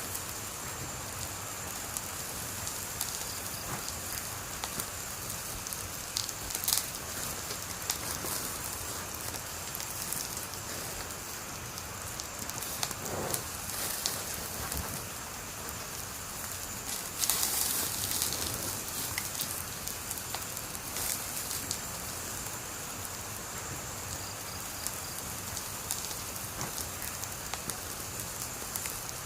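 Wood fire burning with a steady hiss and scattered crackles and pops, with a louder flurry of pops a little past halfway.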